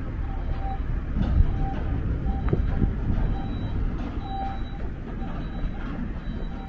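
Steady low rumble of city traffic with a short, high electronic beep repeating every half second to a second.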